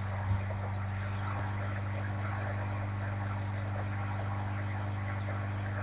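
Steady low hum under an even road and engine noise inside a moving car, with one short knock about a third of a second in.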